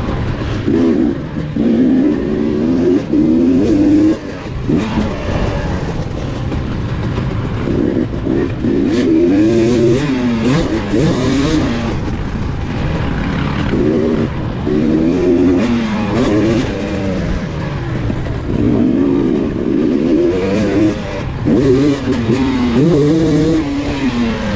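KTM 250 XC two-stroke dirt bike engine being ridden hard, its pitch rising and falling again and again as the throttle is opened and closed.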